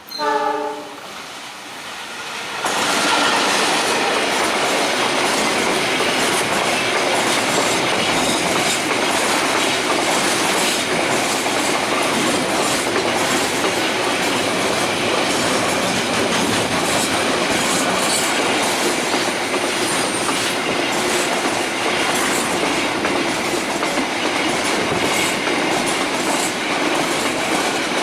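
A train horn sounds briefly, then a train passes close by at speed, its wheels clacking steadily over the rail joints.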